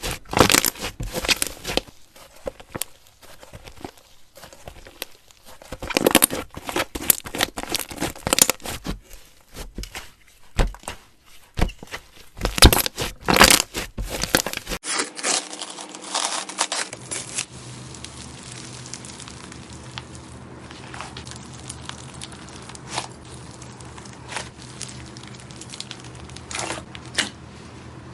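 Slime being squeezed and worked by hand, giving dense sharp crackles and clicks. About halfway through it turns quieter, with scattered clicks over a faint low hum.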